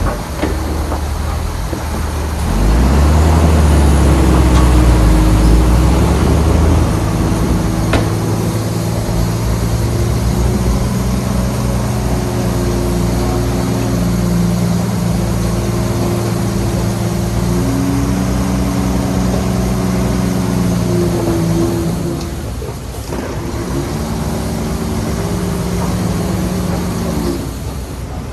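Heavy diesel engine of a Shantui bulldozer running under load, with a heavy low rumble from about two and a half to seven seconds in. Its pitch shifts a few times, it drops briefly a little past twenty-two seconds, then picks up again and eases near the end.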